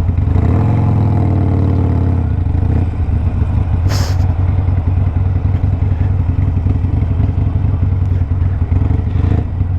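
Harley-Davidson Sportster Iron 1200's air-cooled V-twin, stage-one tuned with a Two Brothers 2-into-1 exhaust, running at low speed. Its note rises in the first couple of seconds and then holds steady, with a short hiss about four seconds in.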